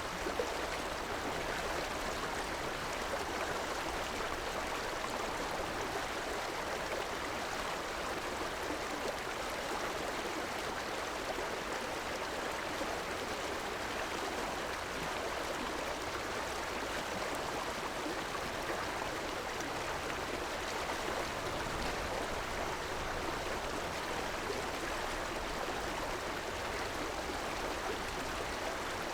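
River water running steadily over rocks, a constant rushing and babbling flow.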